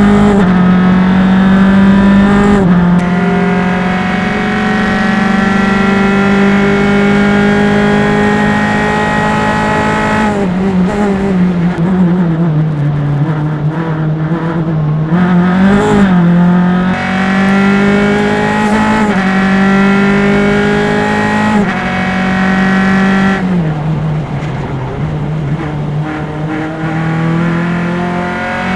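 Single-seater race car engine heard onboard at full throttle, climbing in pitch through the gears, with a sharp drop at each upshift and a long pull in top gear. About ten seconds in it slows through several downshifts with throttle blips, then accelerates hard again through more upshifts, and slows once more near the end.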